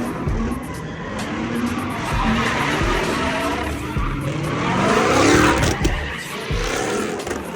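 Car engine revving up again and again while the tires squeal and skid, as in street burnouts or donuts; the tire noise swells loudest about five seconds in.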